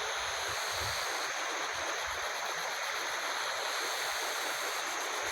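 Jungle insects, such as cicadas or crickets, droning steadily in several high, unbroken tones over an even hiss.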